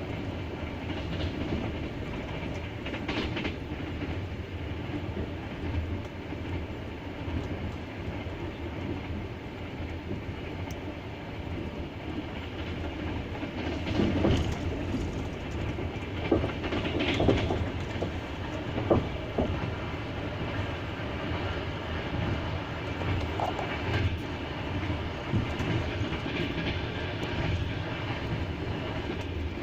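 Double-deck passenger train's wheels clattering over the rails: a steady rumble with irregular knocks from the wheels crossing rail joints.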